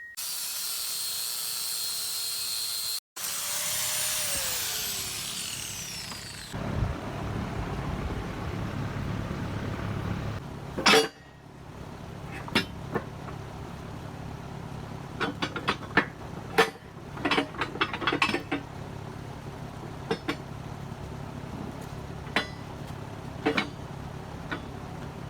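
Angle grinder chamfering the edge of a steel plate: a steady high-pitched whine that winds down after a few seconds. Then a low steady hum with scattered sharp metallic clanks and taps.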